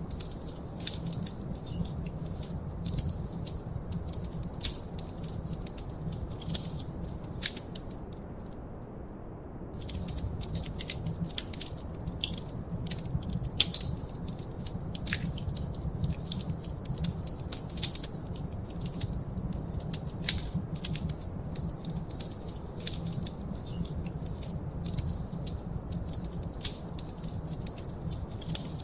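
Wood fire in a fireplace crackling, with frequent irregular sharp pops and snaps over a low steady rumble. The crackling stops for about a second roughly a third of the way in, then resumes.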